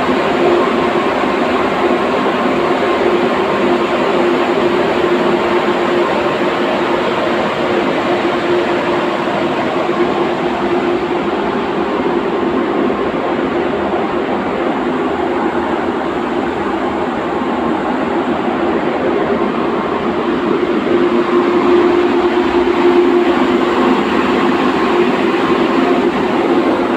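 Steady machinery drone of a ship under way: a constant hum over a rushing noise, unchanging throughout.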